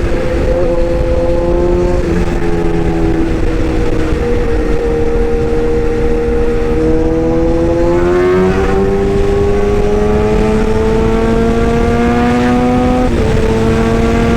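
Toy excavator's small electric motors and gearing running with a steady whine that slowly shifts in pitch as the load changes, jumping in pitch about two seconds in and again near the end.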